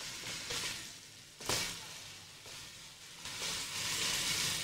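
Chicken and vegetables sizzling as they are stir-fried in a wok, the sizzle swelling and easing as the pieces are turned. One sharp clack of the stirring utensil against the wok about one and a half seconds in.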